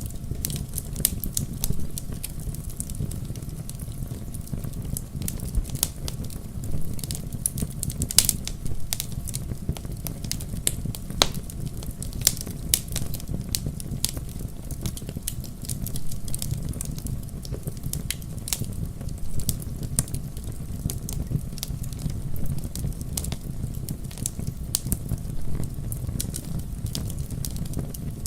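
Wood fire crackling in a fireplace: a steady stream of sharp pops and snaps, a few louder ones, over a low, even rumble of burning.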